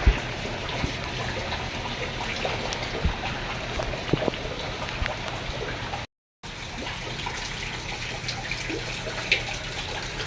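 Floodwater flowing and trickling steadily, with scattered small splashes and clicks. The sound cuts out briefly about six seconds in, then resumes.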